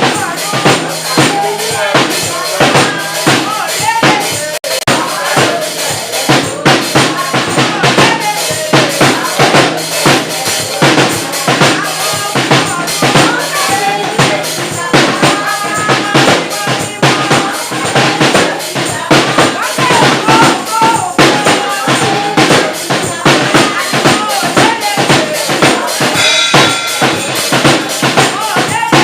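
Live music with a drum kit playing a busy, steady beat of kick drum, snare and rimshots, under voices singing.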